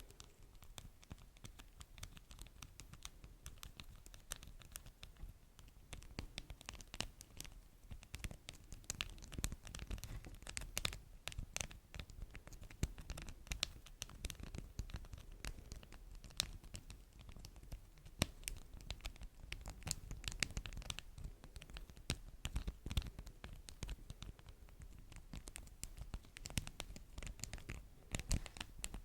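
Close-up hand sounds on beeswax wraps: dense, irregular scratching, crinkling and sticky crackling, many small clicks throughout.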